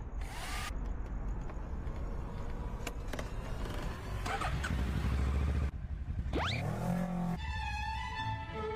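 Motorcycle running on the road, with a steady low engine rumble and rushing noise. A short, sharply rising whistle-like glide comes about six and a half seconds in, and steady higher tones follow near the end.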